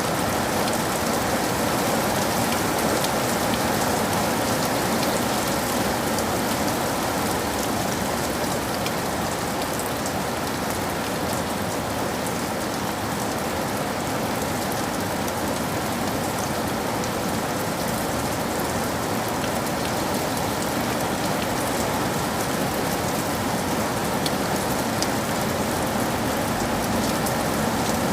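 Steady rain falling and pattering on surfaces, a dense even hiss with many fine drop ticks.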